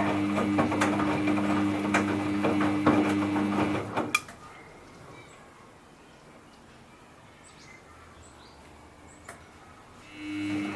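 Samsung EcoBubble front-load washing machine tumbling its drum during the rinse: a steady motor hum with irregular knocks and sloshing from the load. The drum stops abruptly about four seconds in and starts turning again near the end.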